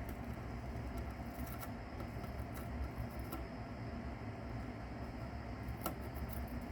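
A mouse chewing and tearing at a cicada, making scattered faint crackles and clicks over a steady low hum. The sharpest click comes about six seconds in.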